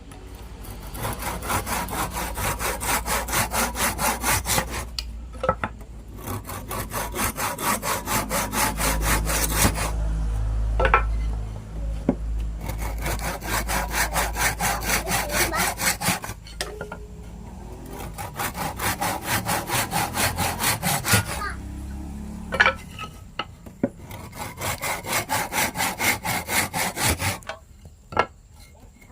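Hand saw cutting wood in fast back-and-forth strokes, about four a second, in several spells of a few seconds with short pauses between them, and a couple of sharp knocks.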